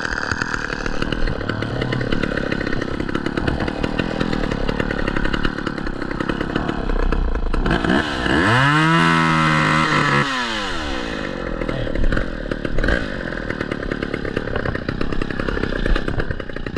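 Chainsaw engine running at a low idle, then revved up about halfway through: the pitch climbs, holds high for about two seconds and drops back to idle.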